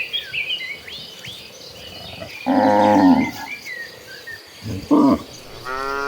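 Cattle mooing: a loud moo about halfway through, a short one shortly after, and a long drawn-out moo starting near the end. Small birds chirp in the first second or so.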